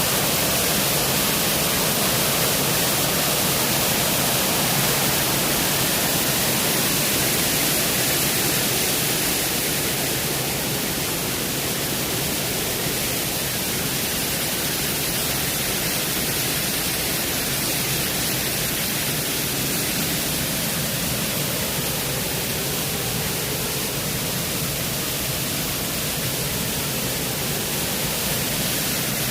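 Steady rushing of a waterfall, an even loud hiss of falling water that eases a little about nine seconds in.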